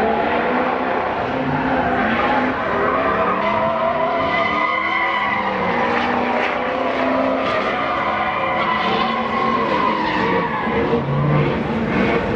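Truck burnout: the engine revs up and down while the tires spin and squeal against the pavement.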